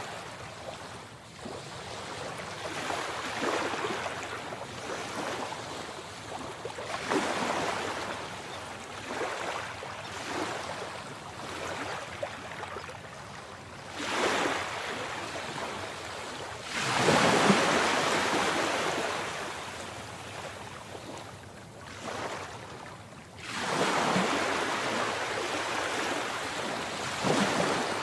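Sea waves breaking and washing in, a surge of surf every few seconds over a steady hiss of water, the biggest wave about two-thirds of the way through.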